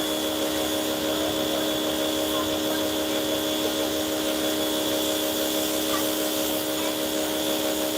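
Pressure washer running steadily: an even motor drone with a thin high whine.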